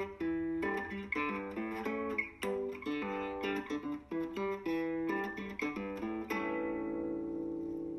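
Background music: acoustic guitar playing a run of plucked notes, ending about six seconds in on a chord that rings and slowly fades.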